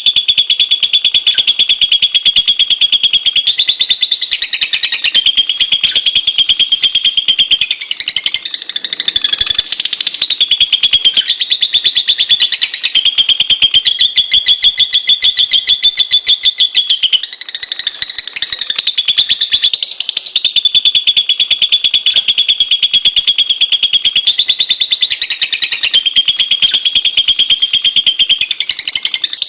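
Lovebird singing a loud, unbroken, shrill chattering trill made of very rapid notes, its pitch stepping up and down a little every few seconds.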